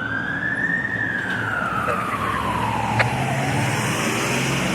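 Fire engine's Code 3 V-Con electronic siren on a slow wail: the pitch climbs to a peak about a second in, sinks to its lowest about three seconds later and starts to rise again near the end. The truck's engine runs as a steady low hum underneath.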